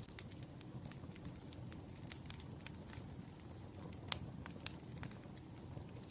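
Wood fire crackling: a low steady rumble of burning logs with irregular sharp pops and snaps, the loudest about four seconds in.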